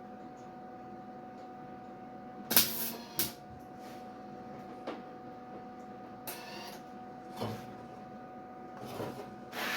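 MIG welder laying a series of short tack welds on sheet-steel tailgate panels: about six brief crackling bursts, the first and loudest about two and a half seconds in, over a steady background hum.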